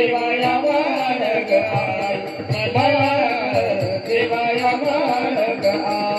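Marathi gavlan, a devotional folk song, sung by an elderly woman in a high, rustic voice, her melody wavering and ornamented over steady hand-drum strokes.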